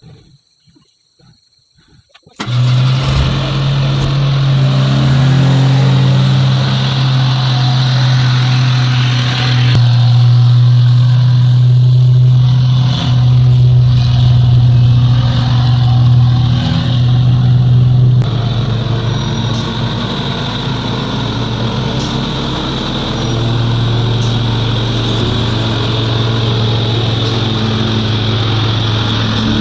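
Heavy truck diesel engine working hard under load on a steep climb, a loud, steady low engine note. It starts suddenly about two seconds in, eases off a little past the middle, and builds again near the end.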